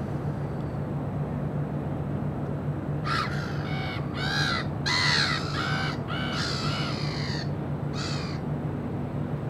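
A bird calling loudly in a run of about six calls, starting about three seconds in, over a steady low hum.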